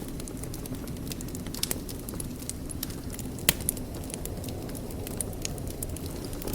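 Wood fire burning in a fireplace: a steady low rumble of flames with scattered crackles and pops, one sharper crack about halfway through.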